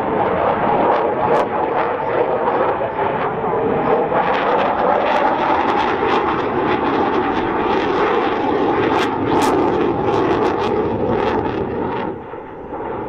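Dassault Rafale jet fighter's twin engines roaring loudly through a display pass, with a crackling edge and a tone that bends slowly in pitch as it moves. The sound eases a little near the end.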